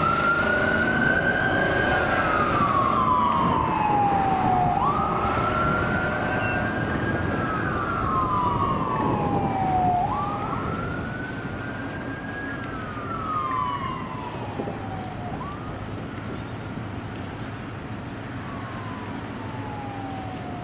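Emergency vehicle's electronic siren on the wail setting: each cycle climbs quickly and then slides slowly down, repeating about every five seconds over engine and road rumble. It grows fainter as the vehicle drives away; the fourth cycle is faint.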